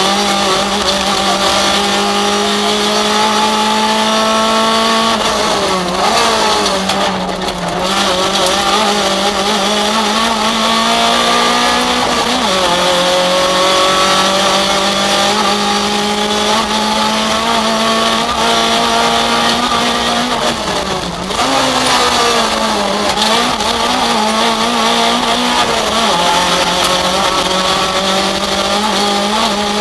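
Rally car engine heard from inside the cabin, pulling hard under load with the revs climbing again and again and dropping sharply about 6, 12 and 21 seconds in.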